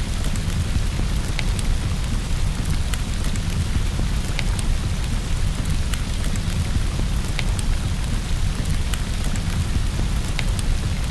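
Steady rain with a deep low rumble underneath, mixed with the scattered sharp snaps and pops of a crackling wood fire.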